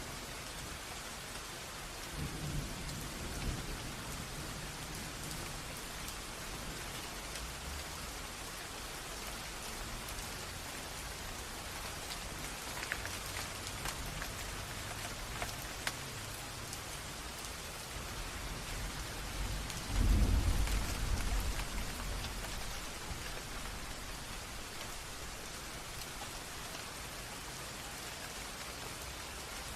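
Steady rain with a running stream, and thunder rumbling twice: a low roll about two seconds in and a louder one about twenty seconds in.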